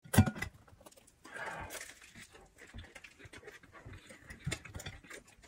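A person chewing a bite of a bread-roll tuna sandwich: small wet mouth clicks and crunches, fairly quiet, with a sharp click just after the start.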